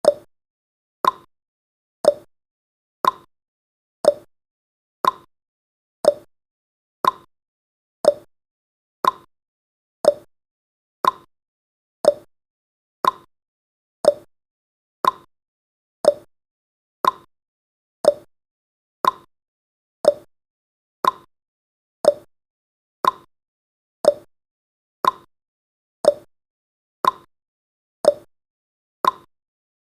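Clock tick-tock sound effect: one short click every second, alternating between a lower and a higher pitch, counting off the seconds of a countdown timer.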